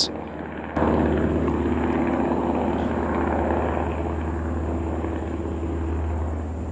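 Helicopter flying overhead: a steady rotor and engine drone with a strong low hum. It cuts in sharply under a second in.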